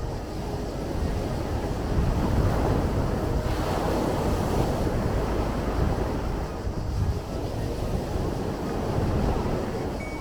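Sea surf: a continuous wash of waves, swelling about two seconds in and again around four seconds.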